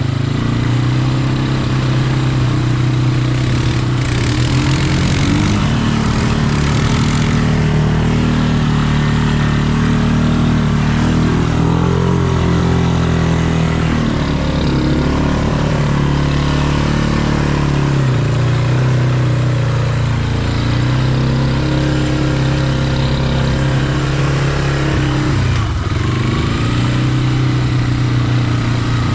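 Off-road vehicle engine running under way, its pitch rising and falling with the throttle. A hissing rush joins it about four seconds in and fades out a few seconds later.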